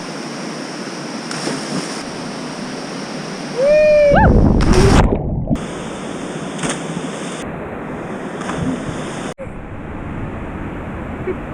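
White-water river rapids rushing steadily around a raft. About four seconds in the rush surges louder for a second or so, with a short yell over it.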